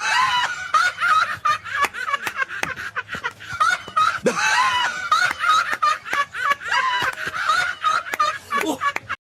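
High-pitched laughter, giggling in quick, repeated bursts, which starts and cuts off abruptly.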